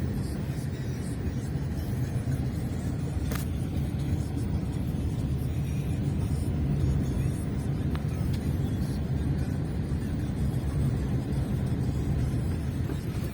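Scania 140's V8 diesel running steadily under load, a continuous low rumble. A single sharp click comes about three seconds in.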